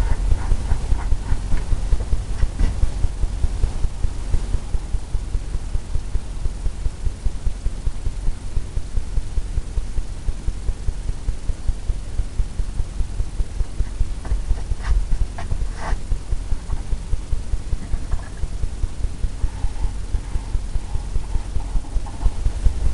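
A brush tapping paint onto a stretched canvas, making steady low thumps about three to four times a second.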